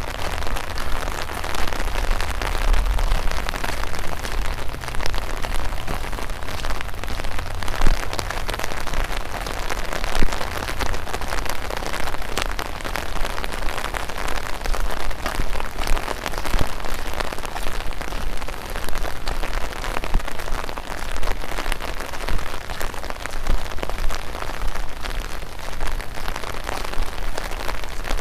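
Steady light rain falling, a continuous hiss with many small drop ticks through it. Under it runs a low rumble, strongest in the first half.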